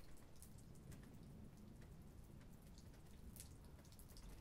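Faint light rain: scattered drops falling and dripping irregularly, over a low steady rumble.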